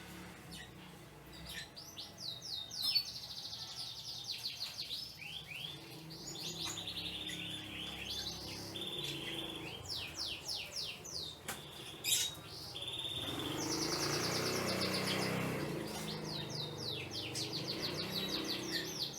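Canaries singing, with fast repeated trills and rapid chirps running on and off. Midway, a sharp click and then a couple of seconds of rushing noise.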